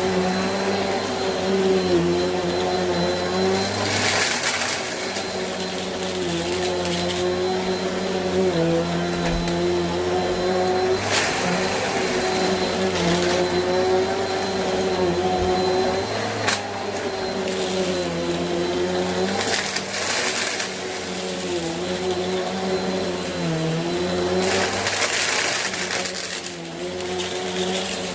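Bissell vacuum cleaner running steadily, its motor hum wavering slightly in pitch, with several brief rushes of louder hiss and a single click about two-thirds of the way through.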